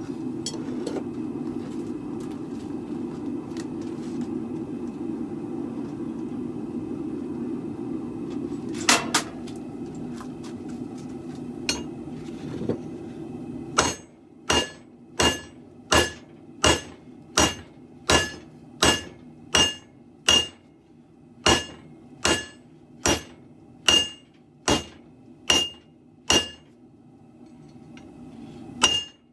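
Hammer blows on a broadsword blade at the anvil, with a bright ring on each strike. In the second half they come at a steady pace of about three strikes every two seconds. Before that there is a steady low rushing noise with a couple of single strikes about a third of the way in.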